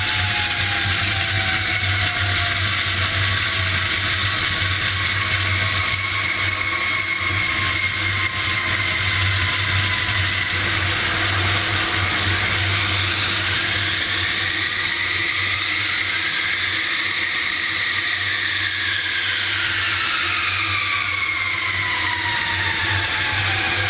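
Jet airliner in flight: a steady rushing noise with a low hum and engine whine tones that drift slowly down in pitch, one of them rising and falling again over several seconds past the middle.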